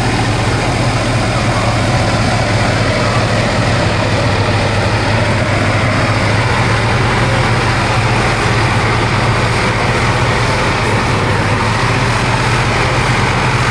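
Heavy off-road competition truck's engine running loud and steady, with a constant low hum under broad mechanical noise.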